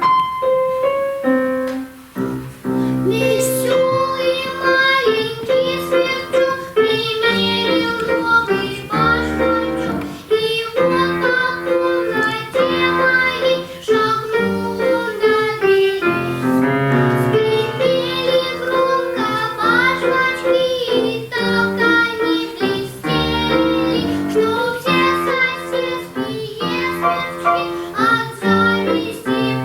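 A young girl singing a children's song over instrumental accompaniment. A short instrumental opening comes first, and the singing begins about three seconds in.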